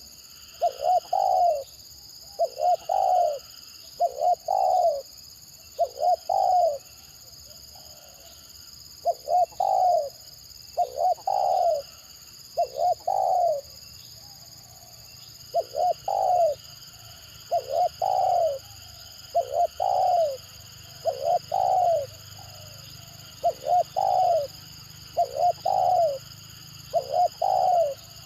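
Spotted dove cooing over and over in a stuttering call: each phrase is a couple of quick clipped notes running into a longer coo, about one phrase every one to two seconds, with two short pauses.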